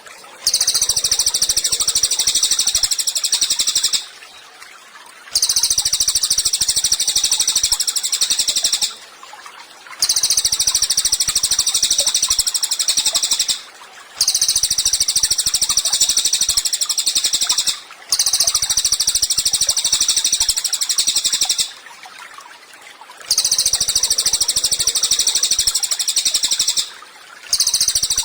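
Cililin bird singing: long, rapid, high-pitched trilling phrases of three to four seconds each, repeated about seven times with short pauses between.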